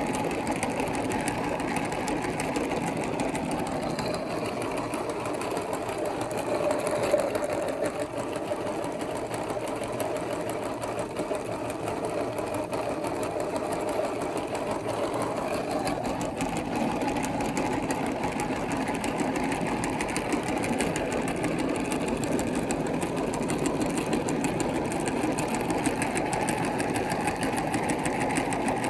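Electric meat grinder's motor running steadily as it grinds.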